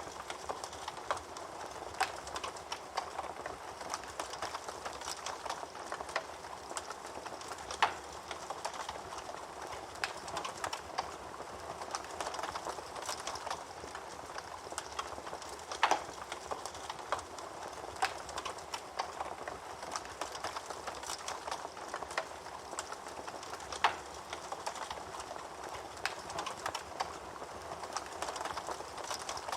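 Wood fire burning in a fireplace: a steady soft hiss under constant small crackles, with a louder sharp pop about every eight seconds.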